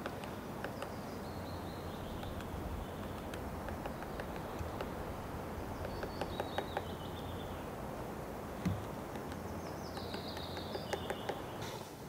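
A small bird sings a short phrase of high notes stepping downward in pitch, three times a few seconds apart, over a steady low rumble with scattered light clicks.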